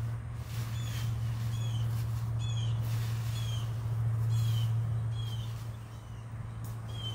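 A bird calling over and over with short, high, falling notes, about one every two-thirds of a second, over a loud steady low hum.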